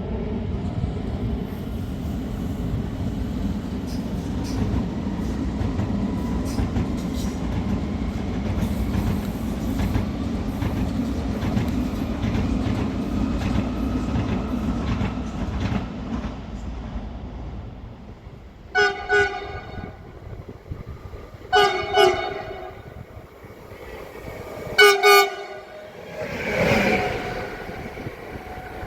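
A train running past with a steady rumble and clattering wheels, fading out after about seventeen seconds. Then a train horn sounds three times, each a pair of short blasts.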